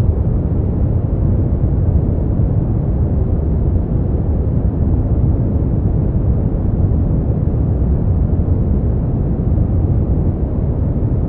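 Brown noise: a steady, deep rushing hiss, strongest in the low end and fading out above the mid range, unchanging throughout.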